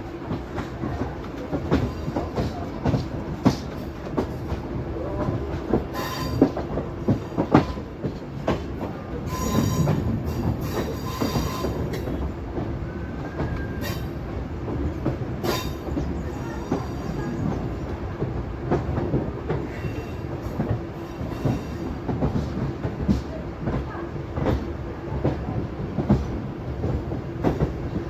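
MEMU electric train running, heard from an open coach door: steel wheels knock irregularly over rail joints over a steady low hum. The wheels squeal at times, most clearly around ten seconds in.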